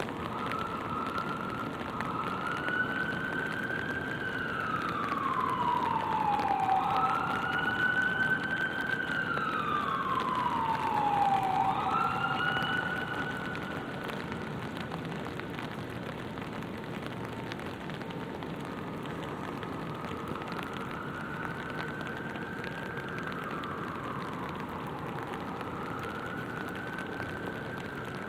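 An emergency vehicle siren in a slow wail, its pitch rising and falling about every four to five seconds. It is loudest in the first half, then fainter, over the steady hiss of rain.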